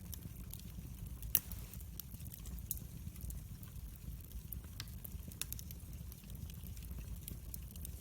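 Wood fire crackling in a fireplace: a steady low rumble of burning with irregular sharp crackles and pops, one louder pop about a second and a half in.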